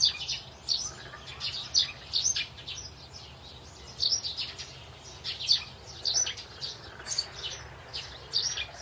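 Several cockatiels chirping, short high calls overlapping one another in quick succession.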